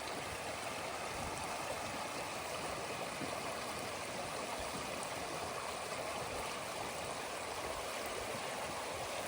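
River water flowing in a steady, even wash.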